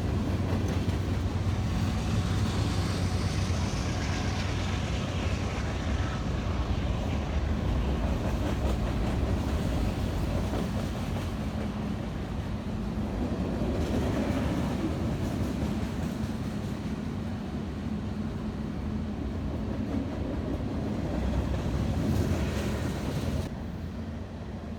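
Freight train rolling past, with a continuous rumble of wheels on rail that carries on without a break.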